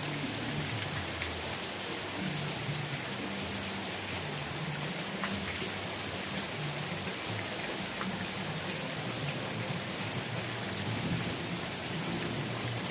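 Steady heavy rain hissing, with scattered sharp drop ticks and a low, uneven rumble underneath.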